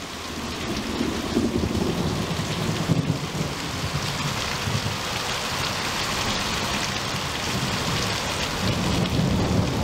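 Heavy rain pouring down steadily, with low rumbles of thunder underneath that swell in the first few seconds and again near the end.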